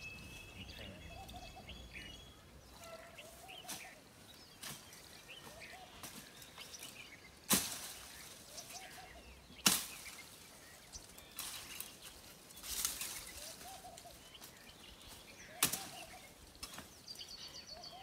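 Birds calling outdoors: one gives a short, low call over and over, about every two seconds, while others add higher chirps at the start. Three sharp clicks stand out, the loudest things in it.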